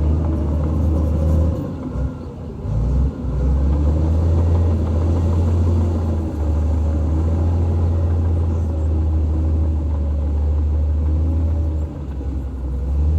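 Heavy earthmoving machine's diesel engine running with a deep, steady rumble. The rumble drops away briefly about two and three seconds in and again near the end.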